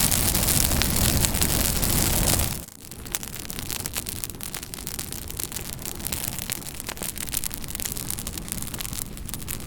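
Campfire burning with a steady hiss and many small crackles and pops. About two and a half seconds in, the level drops suddenly and the fire goes on as quieter, sparser crackling.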